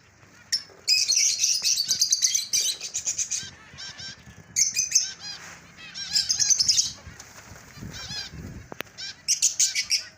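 A colony of caged finches calling: many short, rapid, high calls overlapping in bursts of a second or two, with brief lulls between.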